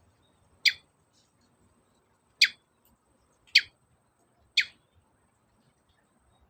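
Long-tailed shrike (cendet) giving four short, harsh calls a second or so apart.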